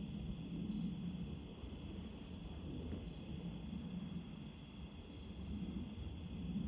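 Strong wind gusting, a low rumbling noise that swells and eases.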